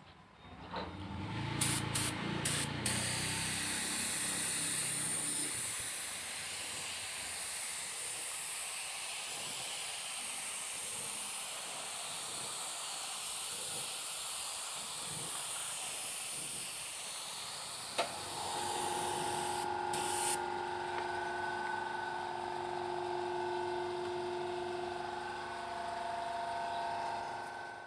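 Spray gun hissing steadily as it sprays a finish coat. About two-thirds of the way in a steady hum with several tones joins it, and both stop just before the end.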